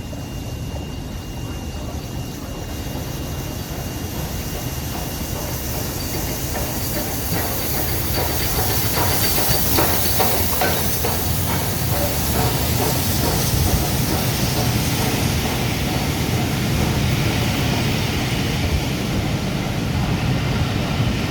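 A steam-hauled train drawing closer, growing steadily louder with a rising hiss of steam. Its wheels clatter over the rail joints about halfway through.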